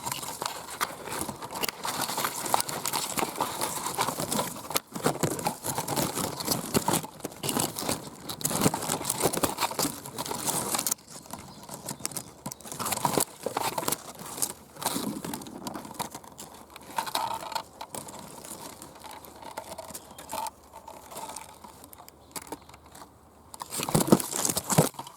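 Close rustling and crackling of twigs and leaves being brushed and pushed aside, dense at first, then quieter, with a louder flurry near the end.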